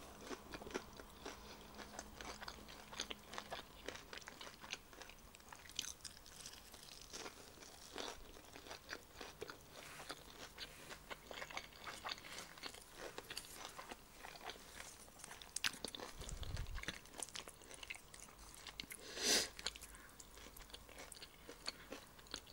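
Close-miked chewing and crunching of a lettuce leaf wrapped around a breaded fish stick and dipped in creamy garlic sauce: a steady run of small crisp crunches and wet mouth sounds, with one louder mouth noise about 19 seconds in.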